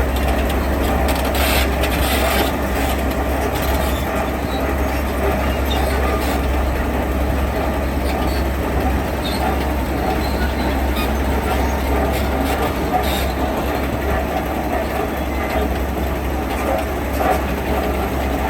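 Heavy diesel construction machinery running steadily with a deep low rumble, with a few short metallic knocks, one about a second and a half in and another near 13 seconds.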